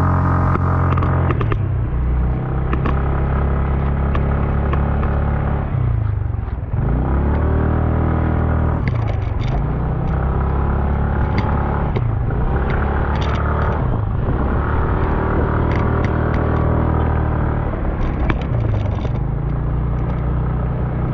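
Motorcycle engine under load climbing a steep road, its note dropping and climbing back again about five times as the throttle or gear changes, with scattered clatter and knocks from the rough surface.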